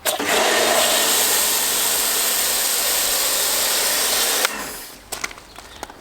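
Kärcher K2 electric pressure washer spraying through a Kärcher snow foam cannon set to maximum flow: a loud, steady hiss of spray over a steady motor hum. It starts at once and cuts off suddenly about four and a half seconds in.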